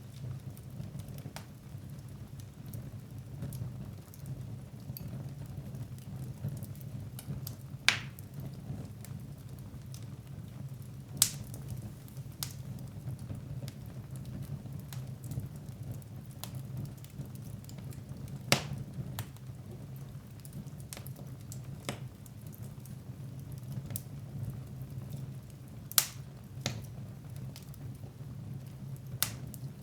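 Wood fire burning in a fireplace: a steady low rumble of flame with soft crackling throughout and a handful of sharp, louder pops.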